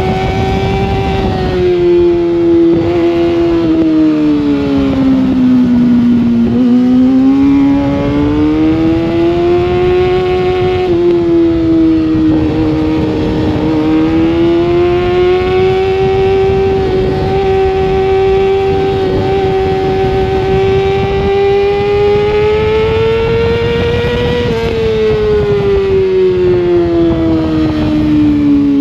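Sportbike engine heard onboard at high revs on a race track, its pitch rising and falling through the lap with a couple of sudden drops as gears are shifted, over a steady rush of wind on the microphone.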